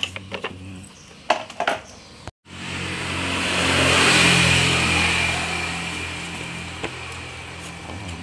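Light clicks and knocks of parts being handled. After a sudden cut, a motor vehicle passes by: a steady engine hum under a rush of noise that swells to a peak and slowly fades.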